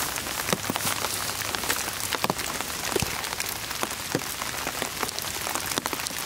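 Steady rain falling, an even patter with many separate sharp drop taps close by.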